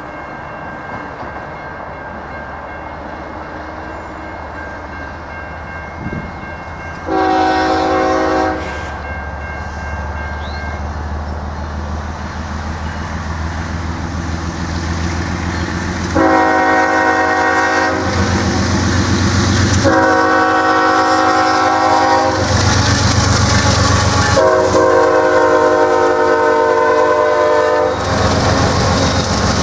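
A diesel locomotive's multi-chime air horn sounds four times: one short blast, then three longer ones, each a little longer than the last. Under it the rumble of the approaching double-stack container train grows louder, and the freight cars roll past near the end.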